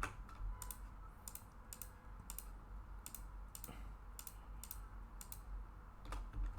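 Computer keyboard and mouse clicks: a dozen or so sharp clicks at an uneven pace, many in quick pairs, over a faint low hum.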